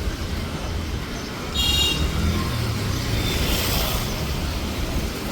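City street traffic: a steady low rumble of engines and tyres, with a short high-pitched horn toot about one and a half seconds in.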